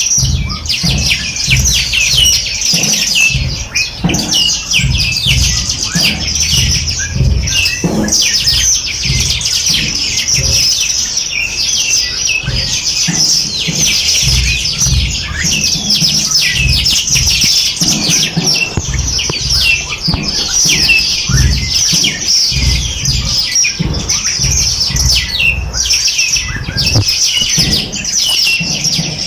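Dense chorus of many small songbirds chirping and trilling at once, without a break, over a low uneven rumble.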